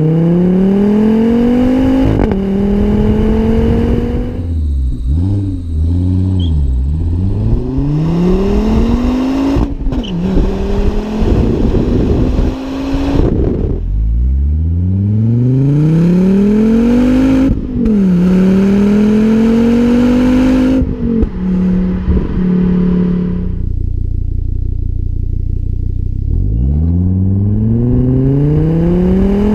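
Volvo V70 R's turbocharged five-cylinder engine and exhaust under hard acceleration, its pitch climbing through gear after gear and dropping back at each upshift. A short spell of steady, lower running comes before a final pull.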